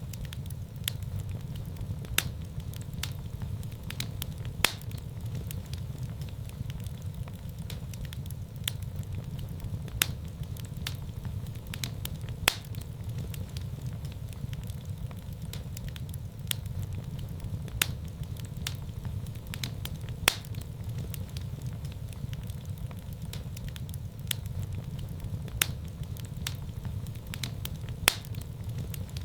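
Wood fire burning in a fireplace: a steady low rumble of flames with sharp crackles and pops every second or two.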